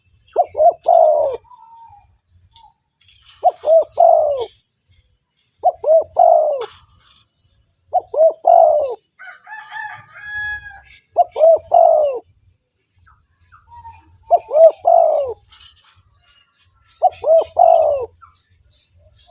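Spotted dove (tekukur) cooing: seven song phrases of several coos each, one every two to three seconds. A brief higher-pitched call is heard about ten seconds in.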